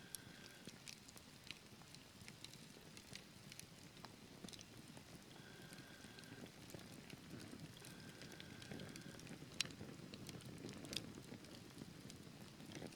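Wood fire burning in a fireplace: quiet, irregular crackling and popping of logs over a low steady rustle, with one sharper pop near the ten-second mark.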